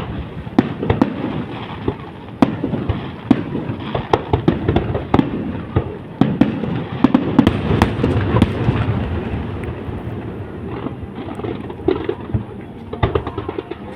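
Aerial fireworks display: a rapid, dense run of booms and crackling bursts, many overlapping.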